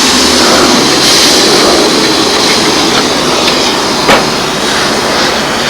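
Steam cleaner jet hissing steadily against engine parts, with a single sharp knock about four seconds in.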